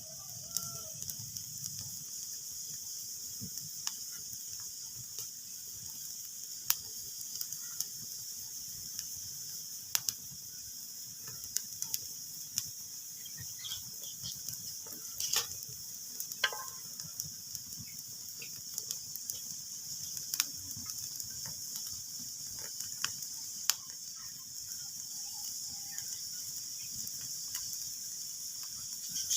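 Wood fire crackling: a steady hiss with irregular sharp pops and snaps, some much louder than others.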